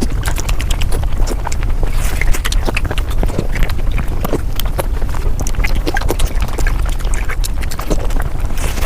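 Eating sounds played back at high speed: a dense stream of quick, irregular crunching and smacking clicks over a steady low rumble.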